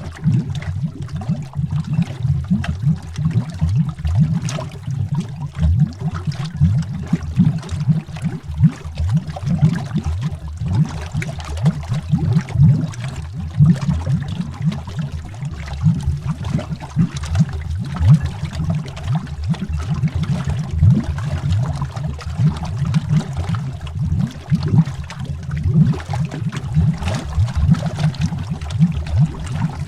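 Continuous underwater bubbling: a dense, steady stream of bubbles with deep low gurgles, heard through the water.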